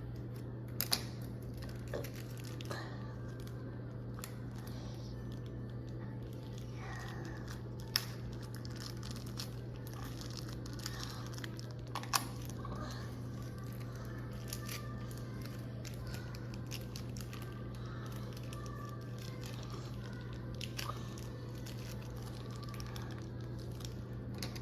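Plastic bag crinkling and rustling as model airplane wings are worked out of it, with scattered sharp clicks and a steady low hum underneath.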